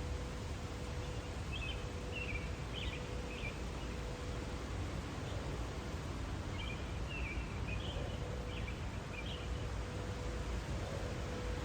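A bird singing two bouts of short chirpy phrases, the first about a second in and the second near the middle, over a steady outdoor rustle of wind and a faint steady hum.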